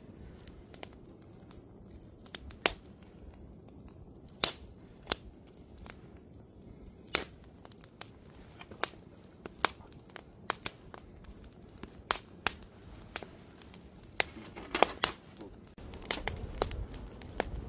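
Wood fire crackling: irregular sharp pops and snaps from burning logs, a few every second or two, over a faint steady hiss. A low rumble comes in near the end.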